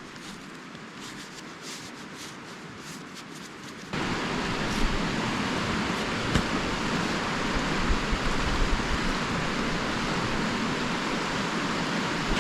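Steady rush of creek rapids, cutting in suddenly about four seconds in after a quieter stretch of faint hiss and light ticks.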